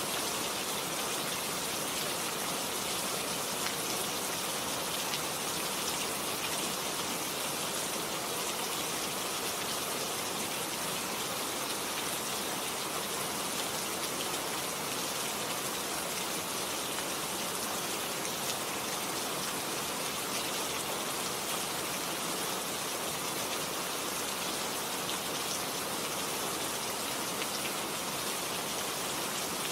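Steady rain falling on garden plants: an even hiss with scattered drop taps.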